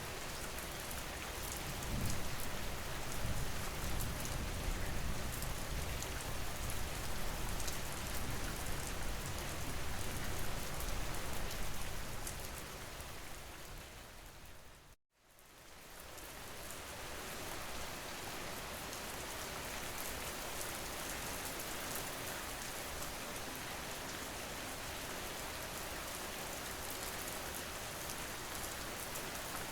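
Steady rain, with a low rumble underneath in the first half. About halfway through the rain fades out to silence for a moment, then fades back in.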